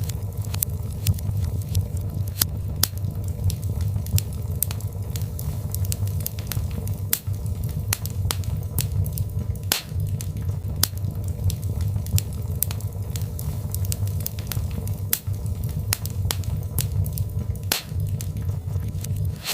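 Birchwood fire burning in a fireplace: irregular sharp crackles and pops, several a second, over a steady low rumble of the flames.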